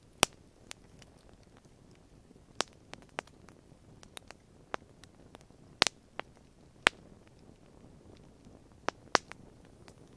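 Campfire burning, with irregular sharp crackles and pops of the wood, about a dozen, the loudest just after the start and around six and seven seconds in.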